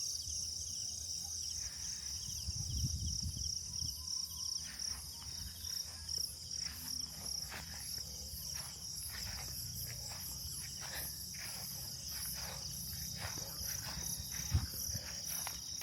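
Steady night insect chorus, a high pulsing trill that never lets up, over a low rumble, with scattered soft clicks through the middle and later part.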